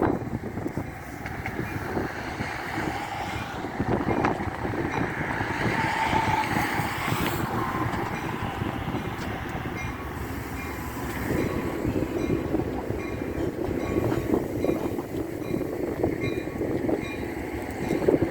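Train passing close by: a steady rumble of wheels running on the rails.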